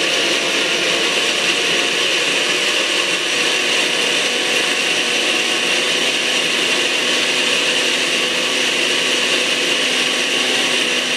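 Blender motor running at high speed with a steady whine, blending a thick mixture of cream cheese, eggs, condensed milk and pumpkin purée until smooth.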